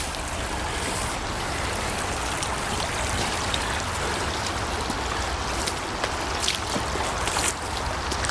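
Stream water flowing steadily, with a few faint ticks.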